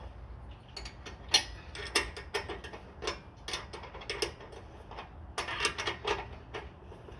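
Irregular sharp metallic clicks and taps, roughly two a second with a quicker run about five to six seconds in, from hand tools working the clamp and joint of a car's rear exhaust box as it is fitted.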